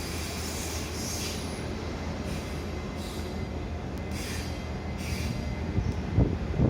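Railway locomotive standing at a station during a locomotive change, with a steady low hum. There are several short hisses and a few low thumps near the end.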